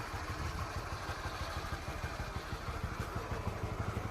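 Honda Winner 150's single-cylinder engine running steadily with an even firing beat. The owner takes this even firing as the sign that the engine is healthy, and says its cam-chain tensioner rattles only when the engine is cold.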